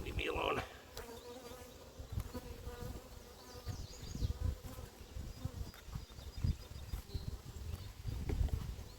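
Honeybees buzzing at an open hive, with one bee flying close and giving a steady buzz through the first few seconds.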